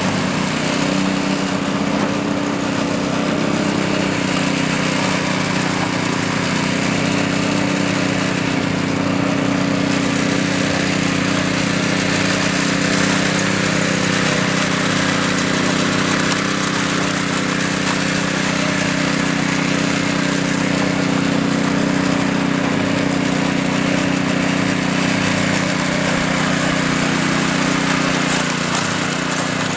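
Power trowel's small petrol engine running steadily at working speed with a constant drone.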